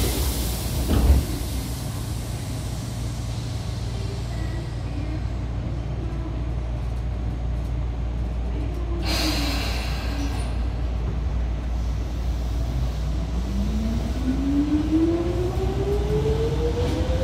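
Inside a Tobu 9000 series commuter train: a steady low hum, a short thump about a second in and a brief hiss of air near the middle. Then, in the last few seconds, the traction motors' whine rises steadily in pitch as the train pulls away and gathers speed.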